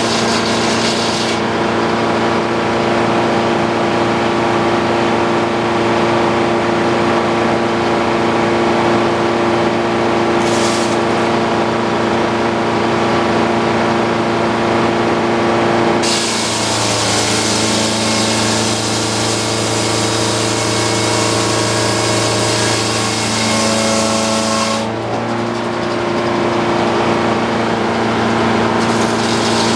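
Antique circular sawmill's engine running steadily; about halfway through the blade goes into the log for roughly nine seconds, the engine pitch drops under the load and a hiss of sawing rises, then the engine picks back up as the cut ends.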